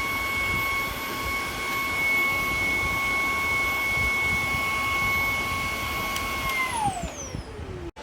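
ILIFE G80 cordless stick vacuum running with a steady high motor whine and rushing air, then switched off about seven seconds in, the whine falling in pitch as the motor spins down.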